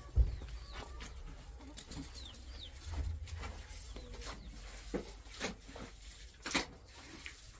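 Bird calls, with a low thump just after the start and a few sharp knocks later on.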